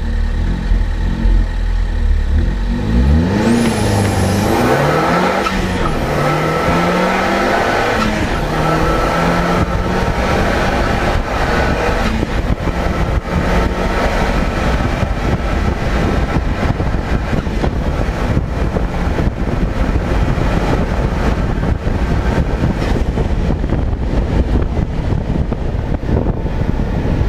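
Zenos E10 S's turbocharged four-cylinder engine held at steady low revs, then launching about three seconds in and accelerating hard. Its pitch climbs and drops through several upshifts, and then gives way to a steady rush of wind and road noise at high speed with the engine running beneath.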